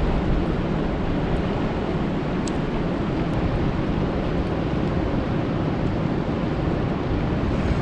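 Steady rain falling on a lake, an even rushing hiss that is heaviest in the low end, with a couple of faint ticks of drops in the middle.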